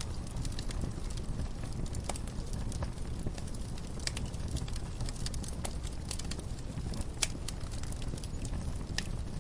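Wood fire crackling in a fireplace: irregular sharp pops and snaps over a steady low rumble of the flames, with a louder snap about seven seconds in.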